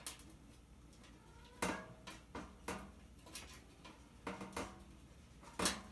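Irregular metallic clinks and knocks, about eight in all, as hand tools work against the toaster oven's sheet-metal casing and small motor mount.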